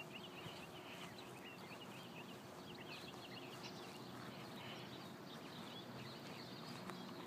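Small birds chirping, many quick short calls overlapping, faint, over a low steady hum.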